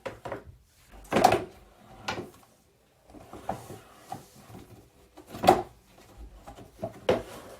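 Brass cartridge cases and tumbler media clattering as they are dumped and shaken into a container, in several separate rattling bursts, the loudest about five and a half seconds in.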